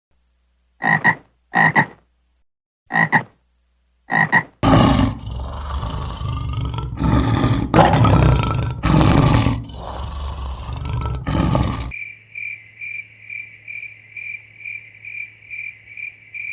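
A sequence of animal calls: four short calls, then a loud, rough stretch lasting several seconds, then a steady run of short high calls, about two a second.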